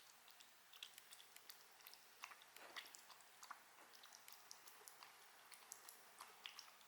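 A person chewing and eating food close to the microphone: soft, irregular mouth clicks and smacks.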